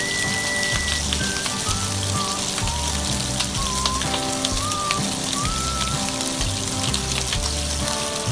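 Pork ribs frying in oil in a nonstick wok, with a steady sizzle full of small crackling pops. Background music with a gliding melody line and a repeating bass runs underneath.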